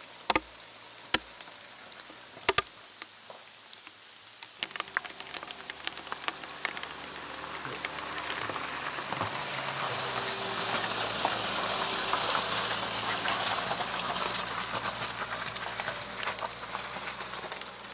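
Rain falling in a forest. A few loud single drops strike close by in the first few seconds. From about four seconds in the rain's hiss grows heavier, then eases off near the end.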